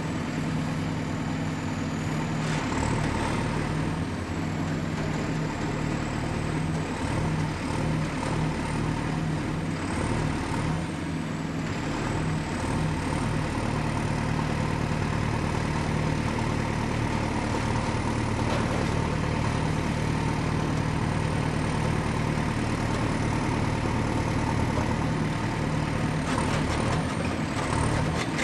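Excavator's diesel engine running steadily under work, with a thin high whine that drifts a little in pitch. A few brief, noisier stretches come about two, ten and twenty-seven seconds in.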